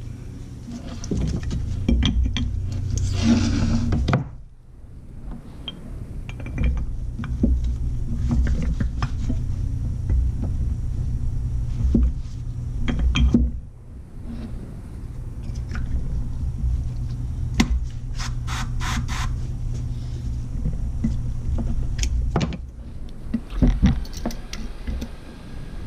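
Metal clicks, knocks and scrapes from working stuck pistons out of a brake caliper, over a steady low hum. A short hissing burst comes a few seconds in, and a quick run of rapid clicks about two-thirds of the way through.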